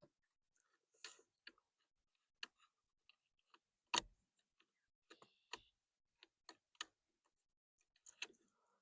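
Faint, irregular clicks and light taps from a wire and plastic parts being worked down through a car's steering column, with one sharper click about four seconds in.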